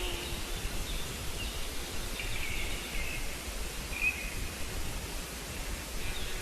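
Steady outdoor background noise with a low rumble, and a few faint, short high-pitched bird calls: at the start, around two to three seconds in, and about four seconds in.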